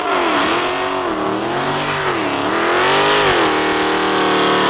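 Car engine revving hard in a burnout, its pitch dipping and climbing several times and then held high near the end, over the hiss of the spinning tyres.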